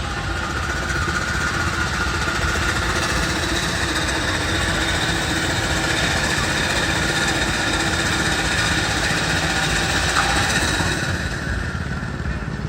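Steam traction engine running close by: a steady mechanical noise with hissing steam and a few faint held tones, swelling about a second in and easing near the end.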